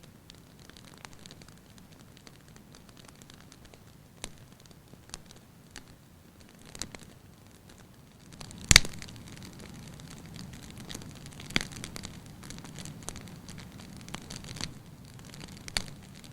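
Wood fire burning in a fireplace, crackling with scattered sharp pops. One much louder pop comes a little past halfway, after which the low rush of the flames is louder.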